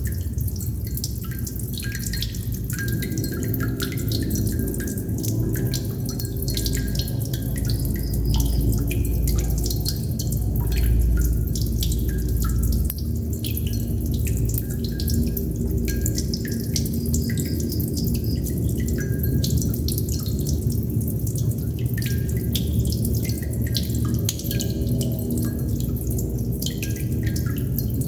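Water droplets dripping irregularly, many small drips in quick uneven succession, over a steady low hum.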